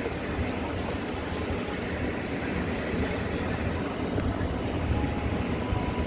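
Car driving along, a steady uneven rumble of engine and tyres on the road surface.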